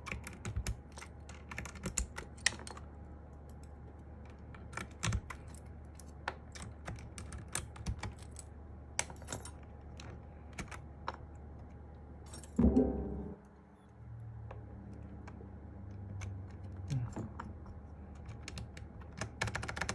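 Keys on a Sky87 mechanical keyboard with MMD Panda switches being pressed and bottomed out one at a time in irregular clicks and clacks, with one louder knock about two-thirds of the way through. The stabilized keys are being tested for stabilizer rattle after the stabilizers were reseated.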